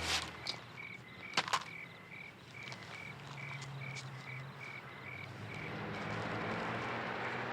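Cricket chirping steadily, about three short chirps a second. Sharp knocks come right at the start and twice about a second and a half in.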